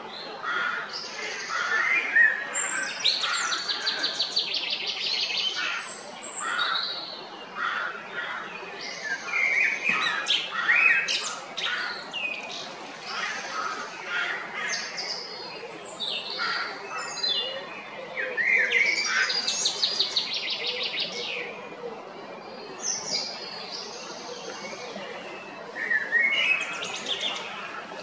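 Songbirds singing in a dense spring chorus: short whistled phrases mixed with fast, high twittering trills, overlapping throughout.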